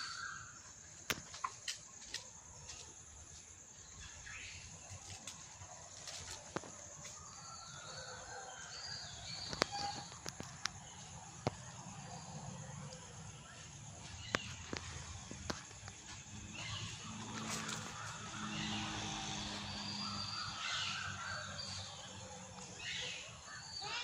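Birds calling now and then over outdoor ambience, with a few sharp clicks and a low steady hum that swells in the second half.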